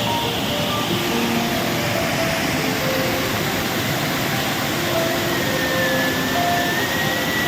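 Waterfall's water rushing in a loud, steady, even roar.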